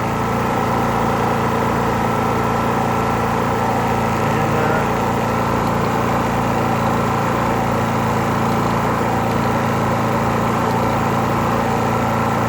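Steady machine drone from a Predator 3500 inverter generator running under load, mixed with a window air conditioner running on its highest cooling setting. The drone holds an even pitch throughout.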